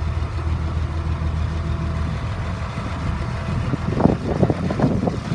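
2003 Blue Bird All American school bus's diesel engine idling with a steady low hum, warmed up after running for almost an hour. A few brief noises come near the end.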